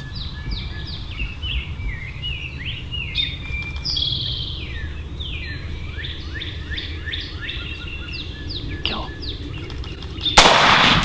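Songbirds singing many short, falling chirps over a low outdoor rumble, then near the end a single loud shotgun blast.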